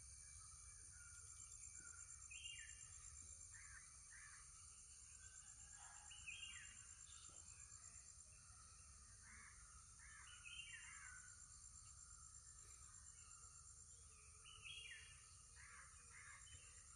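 Birds calling on and off, a few louder calls roughly every four seconds, over a steady high-pitched insect chorus and a faint low rumble.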